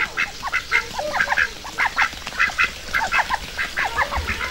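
Farmyard ducks quacking, many short calls in quick succession and overlapping one another.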